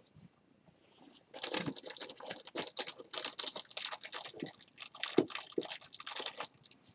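Close rustling and scratching of hands working with small materials, in irregular bursts that start about a second in and stop near the end.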